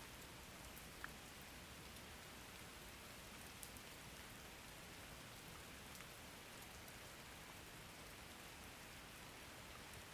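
Steady, faint rain falling, with a few sharper drop ticks, the clearest about one second and three and a half seconds in.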